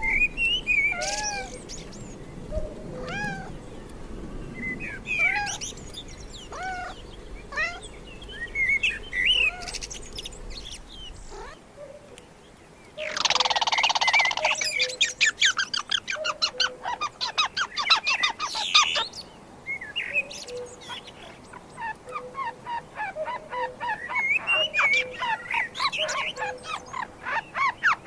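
Birds chirping and calling, short gliding notes repeated over and over. About halfway through, a loud harsh call is followed by fast chattering.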